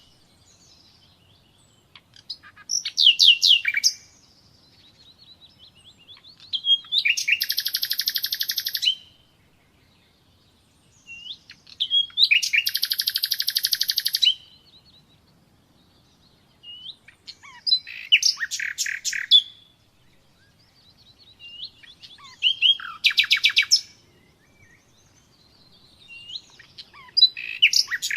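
Nightingale singing in separate phrases of rapid repeated notes and trills, each a second or two long, with quiet pauses of a few seconds between them, six phrases in all.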